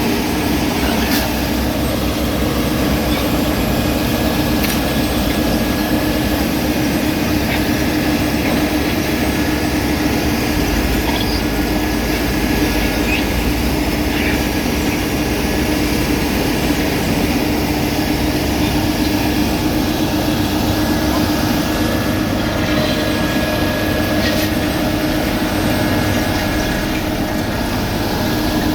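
Heavy road-paving machinery with its engine running steadily at one constant pitch, with a few faint clicks and knocks.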